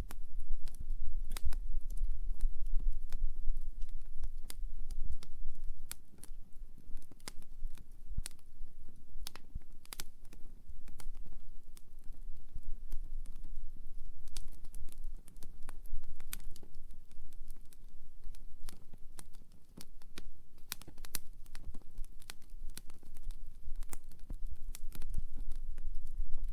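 Wood fire burning, with irregular sharp crackles and pops from the burning firewood over a low rumble.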